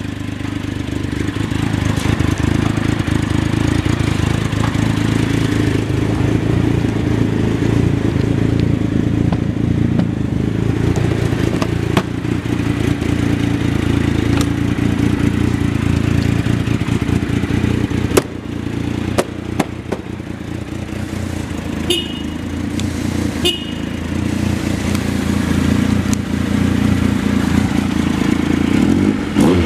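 2015 Triumph Trophy SE's 1215 cc three-cylinder engine running at a steady idle, with a few sharp clicks and two short beeps near the end.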